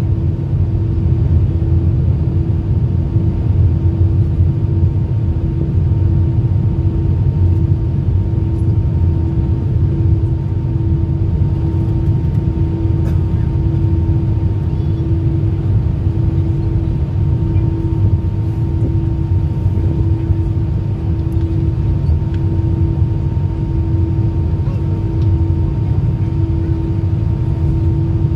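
Steady cabin noise inside an Airbus A319 airliner: a constant low rumble of engines and airflow with a steady hum.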